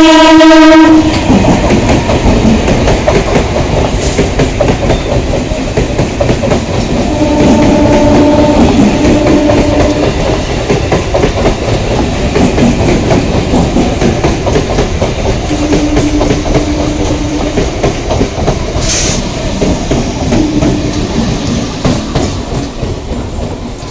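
An EMU local train passing close by. A loud train horn blast sounds right at the start, then the coaches rumble past with a steady clickety-clack of wheels over the rail joints. Shorter horn notes sound a few more times along the way.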